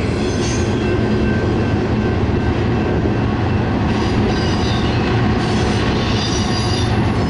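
A train rolling past close by: a steady heavy rumble of wheels on rail, with thin high steady tones from the wheels over it.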